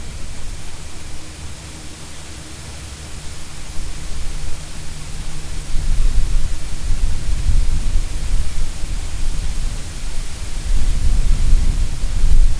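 Car road and wind noise picked up by a dash cam: a steady hiss over a rough low rumble that grows louder about six seconds in.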